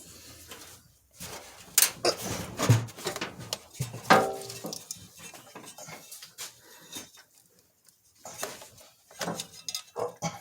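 Intermittent clicks, knocks and light rattles of spark plug wires and parts being handled and plugged in, with a short squeaky tone about four seconds in.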